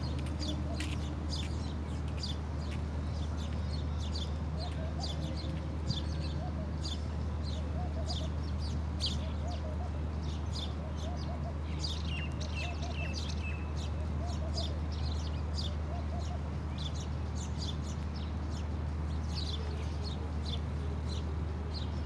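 Birds chirping over and over in short, high calls, with a run of lower clucking calls in the middle, over a steady low hum.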